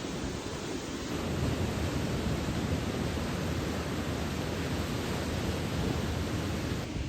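Steady rushing noise of wind and sea surf, stepping up louder about a second in and dropping back near the end.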